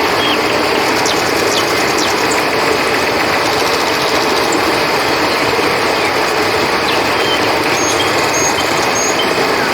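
Steady rushing of a flowing river, with short high chirps now and then.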